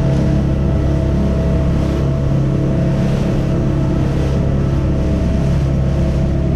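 Motorboat engine running at a steady speed, a constant drone with the rush of water and wind over it.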